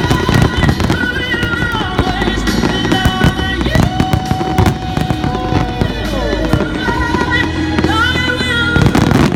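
Fireworks exploding and crackling in many sharp bangs over loud music from the show's sound system, with a heavy burst of bangs near the end.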